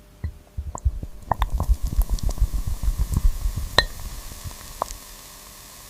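Kitchen clatter: a busy run of short knocks and low thuds with a few ringing, glassy clinks, like utensils and glassware being handled, dying away near the end.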